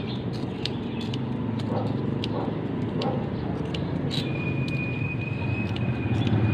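Steady low rumble of a running vehicle, with scattered sharp ticks and a thin, steady high tone that sounds for a little over two seconds in the second half.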